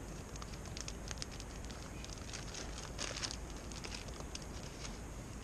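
Popcorn kernels poured into an oiled metal pot, pattering onto the bottom as scattered clicks, with a dense rush of them about three seconds in.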